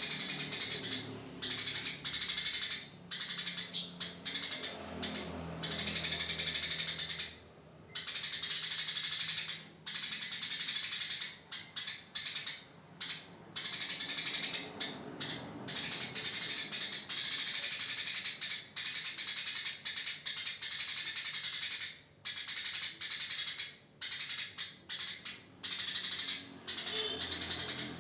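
Eurasian tree sparrows chirping in a dense, jingling chatter, broken by short pauses every second or two.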